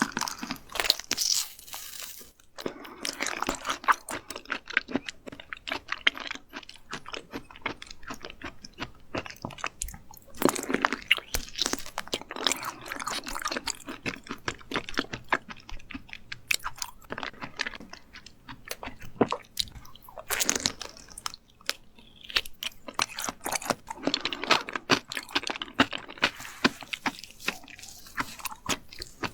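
Close-miked chewing and crunching of raw seafood sashimi, a dense run of wet, crackling mouth sounds coming in bursts with short pauses between.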